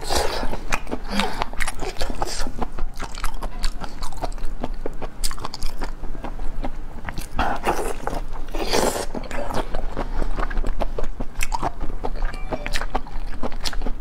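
Close-miked biting and chewing of raw lobster meat, a steady run of small wet mouth clicks, with a louder, longer stretch about eight seconds in.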